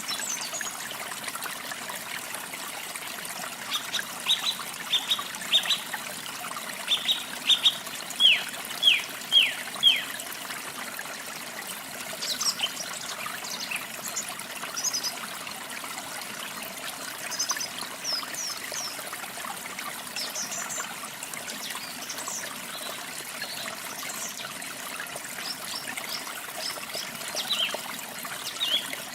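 Steady trickle of running water with small birds chirping over it: a quick run of short, falling chirps about four to ten seconds in, the loudest sounds here, then scattered higher, thinner chirps.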